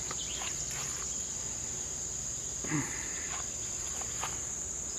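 Steady high-pitched chirring of insects, likely crickets, with a few faint short chirps over it.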